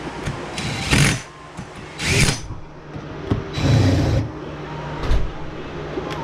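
Metal mounting hardware and tools being handled: a few separate clunks and a longer rattling clatter near the middle, over a steady low background hum.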